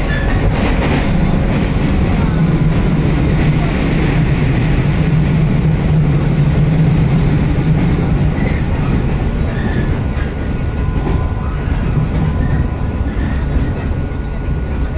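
Running noise inside a moving electric train carriage: a steady rumble of wheels on rails with a low hum that is strong at first and eases about eight seconds in.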